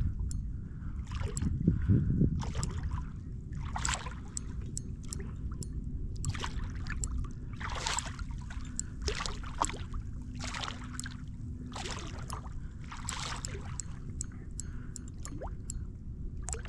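Water slapping and gurgling against a fishing kayak's hull in short splashes about once a second, over a steady low rumble.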